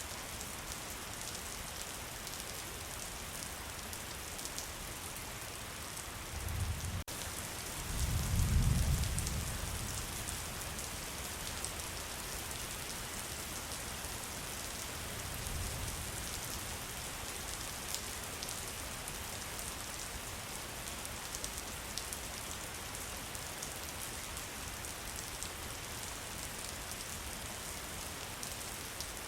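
Steady heavy rainfall: an even hiss of rain with many fine drop patters. A few low rumbles come through, the loudest about nine seconds in, with a weaker one near the middle.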